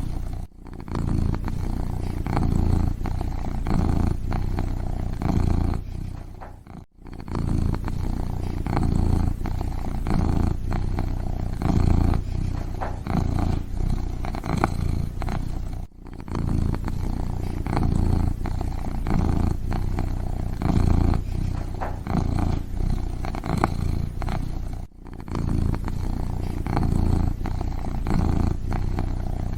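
Kitten purring steadily, a low rumble that swells and eases about once a second with each breath, with a brief break about every nine seconds.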